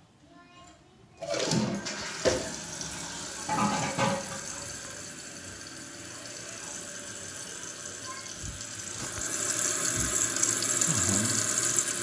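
Kohler Wellworth toilet flushing with its tank open: a sudden rush of water about a second in, then water running steadily. It grows louder and hissier from about three-quarters of the way through as the tank refills.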